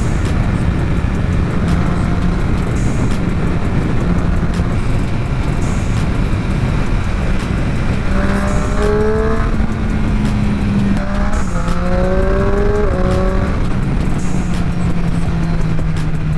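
Motorcycle engine running under way with heavy wind rush, its pitch rising twice, about eight and eleven seconds in, as the bike accelerates.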